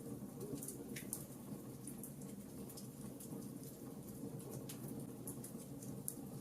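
Wood fire burning, with a steady low rush and scattered small sharp crackles and pops of burning wood.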